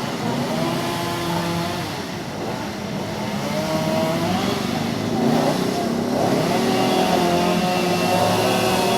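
Road traffic: several motor vehicle engines running at once, their pitches wavering up and down as they rev.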